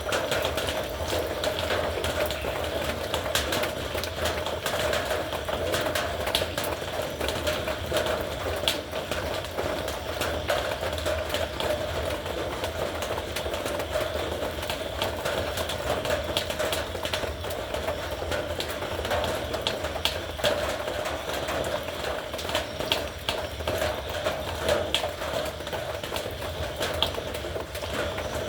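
Heavy rain falling steadily on a metal roof: a dense, even patter of countless drop impacts.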